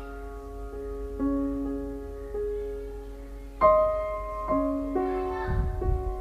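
Soft background piano music: slow, sustained notes, with a new note or chord struck about every second.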